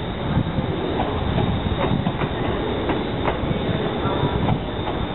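Train wheels rolling over rail joints and pointwork with a steady low rumble and irregular sharp clacks, and a brief faint wheel squeal about four seconds in.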